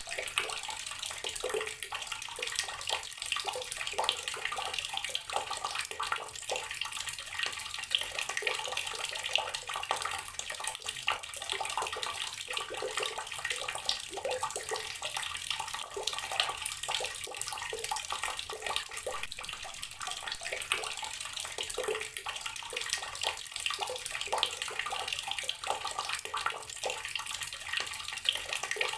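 Water tap running steadily, a continuous stream splashing into a basin or tub with constant fine spattering and no pauses.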